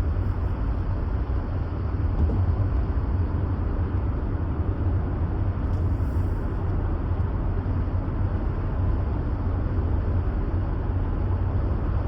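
Steady low rumble of a car's engine and tyres heard from inside the cabin while driving at low speed.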